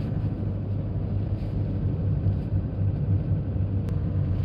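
Car driving on the road: a steady low rumble of engine and tyres, with a single faint click near the end.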